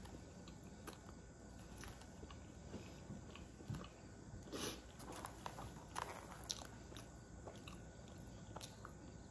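Faint chewing of a mouthful of naan bread dipped in curry: soft wet mouth clicks and smacks, with a brief cluster of louder ones about four and a half seconds in and another about six seconds in.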